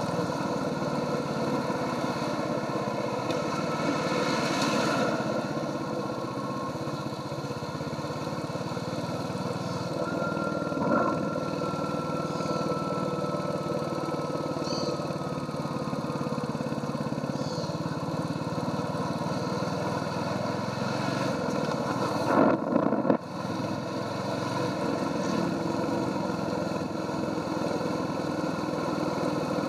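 Royal Enfield Hunter 350's single-cylinder engine running steadily through the stock exhaust while riding. A faint whistle slides slowly down in pitch partway through, and a short loud burst of noise comes about three quarters of the way in.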